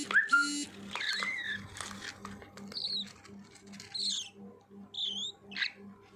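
Baby budgerigars chirping and squeaking: short high chirps, several sliding up or down, about once a second, with two harsh, buzzy calls at the very start.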